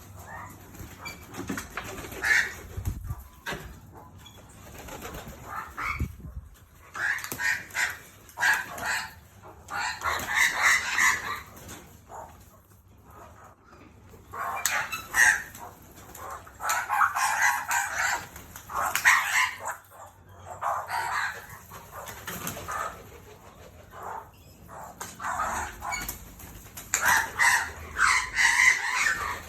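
Birds at feeding time, wings flapping in repeated bursts of a second or two, with quieter gaps between.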